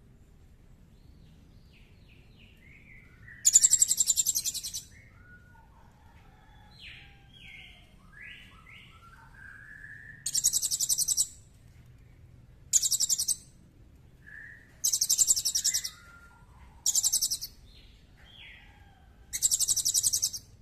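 Songbird calls from a bird-training (masteran) recording: six loud, very high, rapid rattling trills of about a second each. Softer, varied chirps and short whistles come between them.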